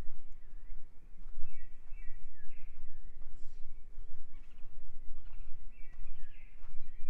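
Wild birds singing short phrases of a few notes, repeated every second or so, over a steady low rumble.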